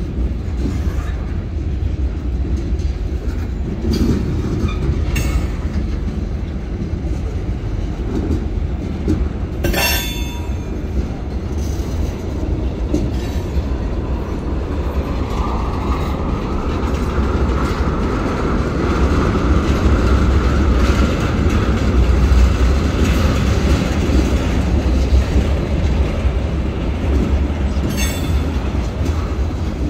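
Freight train cars (covered hoppers and boxcars) rolling past, their steel wheels rumbling and clattering over the rails. There is a sharp clank about ten seconds in and another near the end. A faint high wheel squeal rises in the middle as the rumble grows louder.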